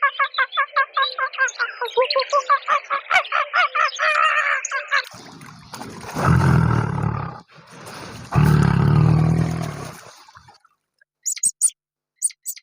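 A string of animal calls in turn. First comes a fast run of short, pitched calls, several a second, for about five seconds. Then two long, loud calls follow, each about two seconds, and a few brief high chirps come near the end.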